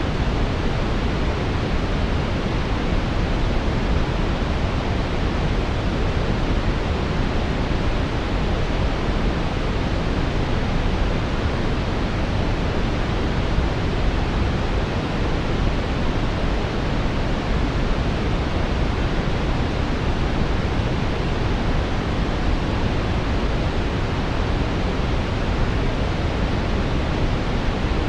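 Steady brown noise: an even, deep rushing hiss, strongest in the low end and rolling off toward the highs, with no change.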